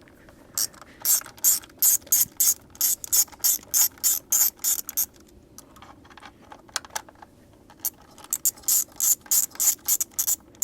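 Hand ratchet wrench clicking in quick repeated strokes as it backs out the 10 mm bolts holding an ignition coil on a Hyundai 2.0 GDI four-cylinder engine. There are two runs of clicks with a pause of about two seconds between them.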